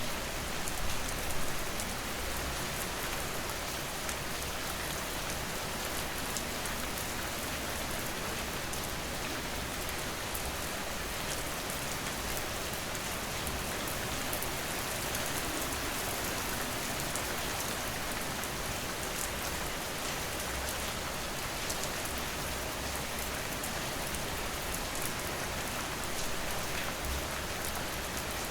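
Steady rain falling and pattering on surfaces, a dense even hiss with scattered drop ticks.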